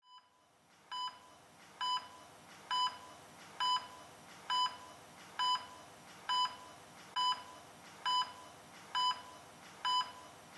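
Steady electronic beeping: eleven short, identical high beeps at an even pace of about one a second, the first coming about a second in.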